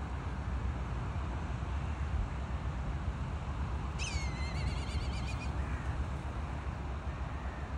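A bird's call about four seconds in: a sharp high note that drops and runs into a wavering trill for about a second and a half. Steady low wind rumble on the microphone throughout.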